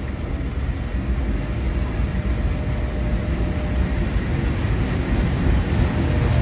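Train rumbling along the station tracks, a dense low rumble that slowly grows louder.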